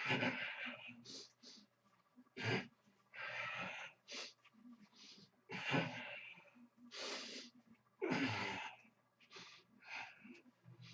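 A man breathing hard in short, forceful huffs, about one a second, as he strains through stretch-band exercise reps.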